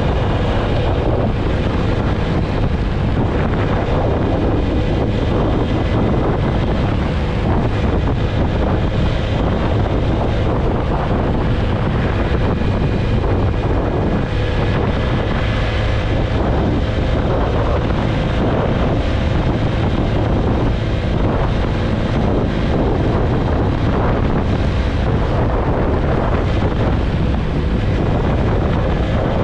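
Heavy wind noise buffeting the microphone of a motorcycle cruising at steady speed. The TVS Apache RTR 160 4V's single-cylinder engine runs evenly underneath.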